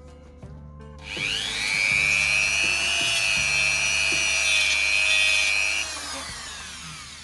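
Small handheld power tool motor spinning up with a rising whine about a second in, running at speed for about five seconds, then winding down with a falling whine near the end.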